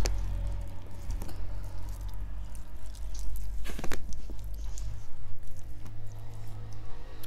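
Close-up eating sounds: chewing and tearing roasted chicken meat by hand, with small wet clicks and squishes over a steady low hum.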